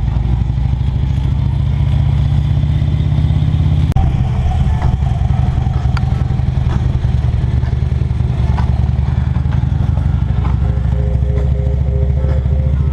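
Harley-Davidson V-twin motorcycle engine running steadily under way while riding, with a brief dip in the note about four seconds in.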